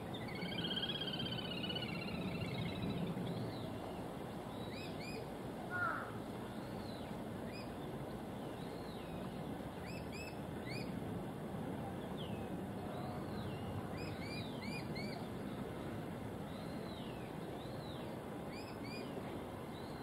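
Small birds chirping: short, high notes, often in quick pairs or threes, scattered throughout over a steady low background rumble. One brief, louder call comes about six seconds in.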